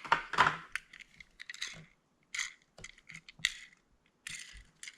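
Crackling of plastic toy packaging and small clicks and rattles as a die-cast toy car is taken out and handled, loudest about half a second in, then in short bursts.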